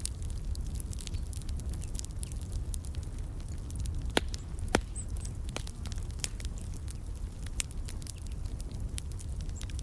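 Wood fire in a fireplace crackling, with a steady stream of small snaps and pops. Two louder pops come about four and five seconds in. A low rumble of the burning runs underneath.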